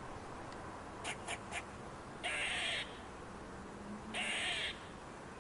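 A bird gives two harsh, rasping calls, each about half a second long and about two seconds apart, after three short clicks about a second in.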